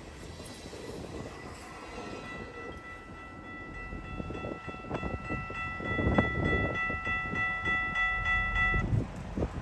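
Freight test train passing, with a rumble and irregular wheel knocks that grow louder through the second half, and a steady high-pitched squeal from about two seconds in until shortly before the end.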